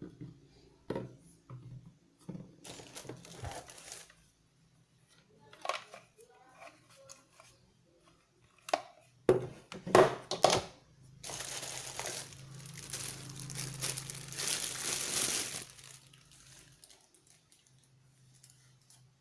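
Packaging being handled and opened: crinkling and tearing, with a few sharp knocks loudest about halfway through, then a long stretch of rustling, tearing noise lasting several seconds.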